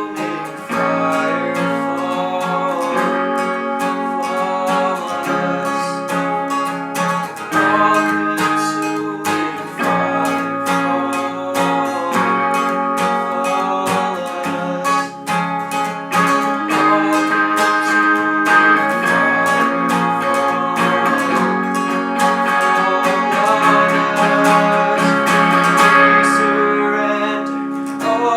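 Music led by a strummed acoustic guitar, its chords changing every second or two, in a worship song.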